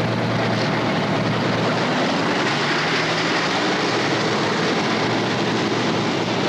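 Heavy diesel truck engines running loud and steady, with a low drone under a dense wash of engine noise.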